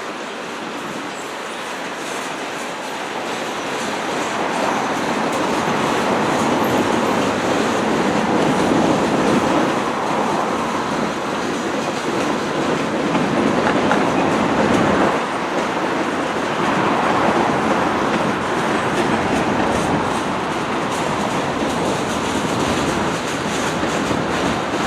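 A train passing close by, its wheels rolling on the rails in a steady, loud rush that builds over the first several seconds and then holds.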